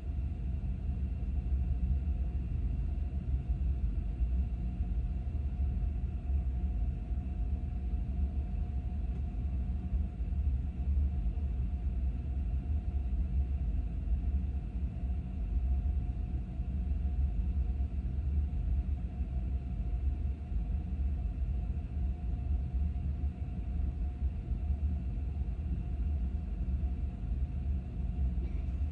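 Steady low rumble of a vehicle in motion, unchanging throughout, with a faint steady hum above it.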